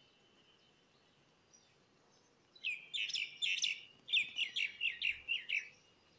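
A songbird calling in a quick run of about ten short chirps, each dropping in pitch, starting about two and a half seconds in and lasting about three seconds.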